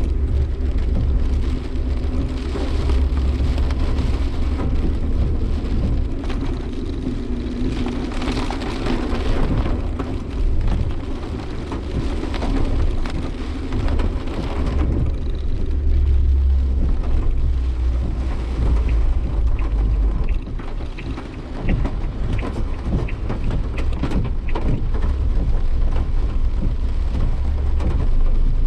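Heavy typhoon rain beating on a Suzuki Jimny Sierra as it drives, heard inside the cabin over a steady low rumble of engine and road noise.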